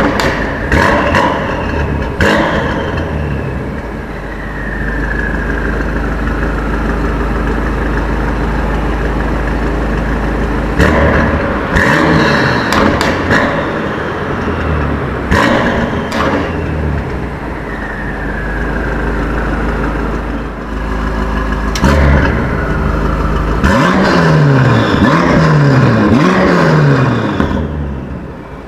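BMW M5 F90's twin-turbo V8 revved hard several times, each rev falling away to a deep, steady idle. Near the end the engine is blipped quickly about five times, the pitch rising and falling with each blip.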